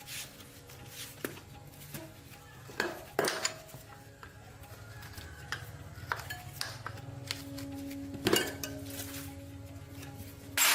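Metal tools and parts clinking and knocking against one another in irregular strikes, with louder knocks about three seconds in, past the middle and near the end.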